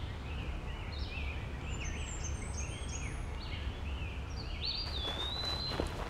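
Small birds chirping in quick, short high notes over a steady low rumble, with one longer held high note a little before the end.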